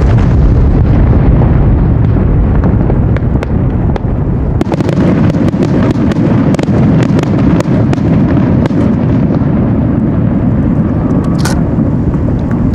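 Aerial fireworks going off in a dense, continuous barrage: deep booming bursts overlapping with many sharp crackles. The low booming eases a little about five seconds in.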